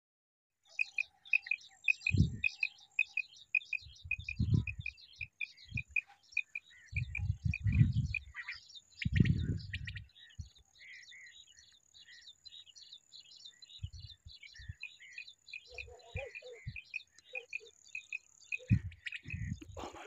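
Small birds chirping in a rapid, even series, about four chirps a second, thinning out after about ten seconds, over a faint steady high buzz of insects. Several low rumbling bumps over the microphone in the first half are the loudest sounds.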